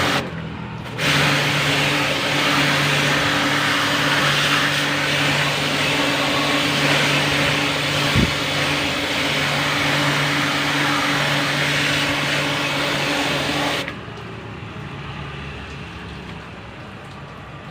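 Electric high-pressure washer running, its pump motor humming under the hiss of the water jet as it cleans an air-conditioner condenser. It stops briefly just after the start, runs steadily again, then cuts off about 14 seconds in.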